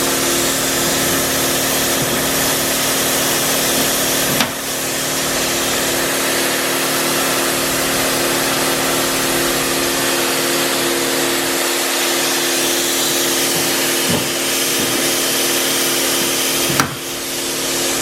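A power tool running steadily during auto body work: a continuous loud hiss with a low hum, briefly dipping twice.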